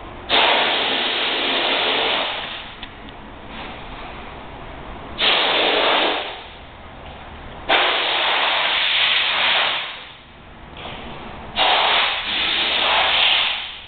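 Hissing spray in four long bursts of a second or two each, every one starting and stopping sharply.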